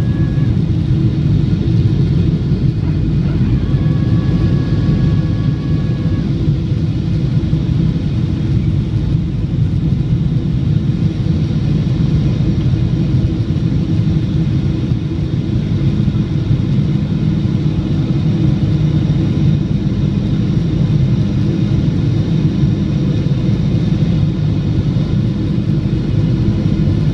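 Steady, loud, low rumble of a Boeing airliner's Rolls-Royce jet engines and rushing air, heard from inside the cabin.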